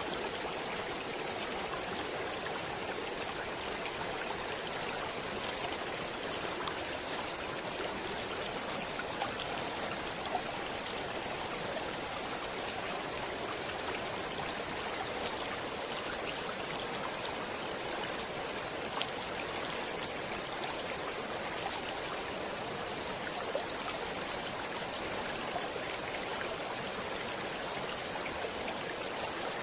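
A stream of running water flowing steadily, an even noise with faint small splashes and drips scattered through it.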